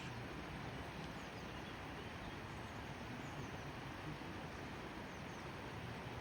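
Steady rushing of river water, with two faint, short high chirps from a bird.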